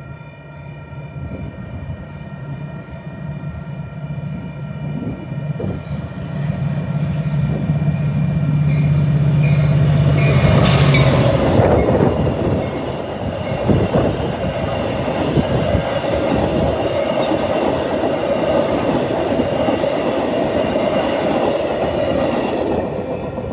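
A train passing close by: a low locomotive engine drone builds, then from about halfway the wheels clatter over the rails with a steady metallic squeal.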